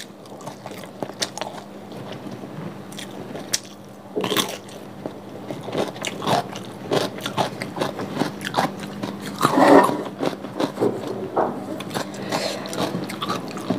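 Close-miked eating sounds: crunchy bites and wet chewing of cassava fried rice (nasi goreng tiwul) with raw cucumber, heard as irregular clicks and smacks.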